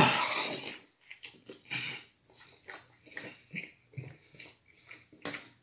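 Close-up chewing and lip-smacking as a man eats a mouthful of bacon-wrapped deep dish pizza: short, irregular smacks and clicks a few times a second, with a louder one near the end.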